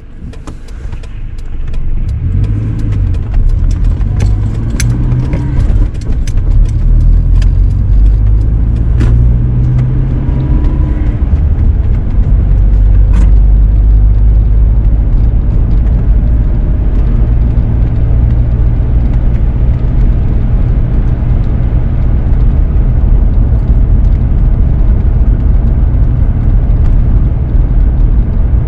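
Four-wheel-drive vehicle driving, a steady low rumble of engine and road noise inside the cab, with scattered sharp clicks and ticks in the first half.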